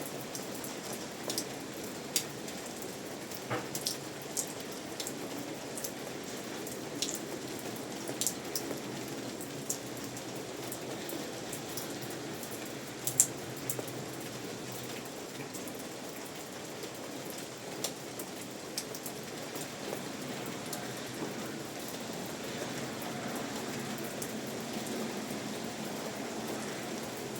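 Steady rain, with individual drops hitting a surface in scattered sharp ticks through the hiss; one tick about halfway through is loudest.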